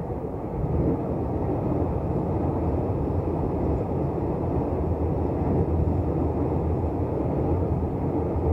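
Electric commuter train running across an elevated girder viaduct: a steady low rumble of wheels and bridge that swells about a second in and then holds.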